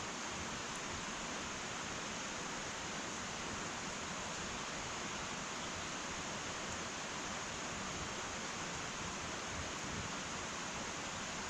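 Wood fire in an irori hearth burning with a steady soft hiss and a couple of faint pops.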